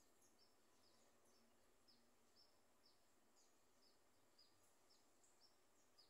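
Faint, high, short bird chirps repeated about twice a second over a steady hiss.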